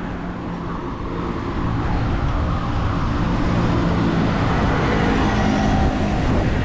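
Road traffic: a motor vehicle's engine running close by, growing steadily louder.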